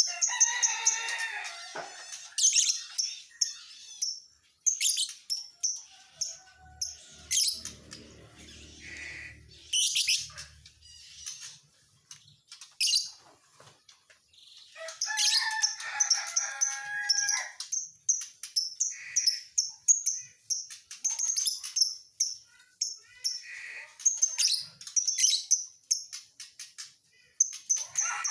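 Lovebird chirping and twittering in quick, shrill runs of notes, with sparser single chirps between the busier stretches.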